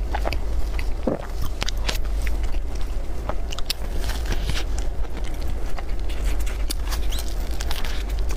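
Close-miked eating of cream puffs: chewing with many small, sharp clicks and crackles, over a steady low hum.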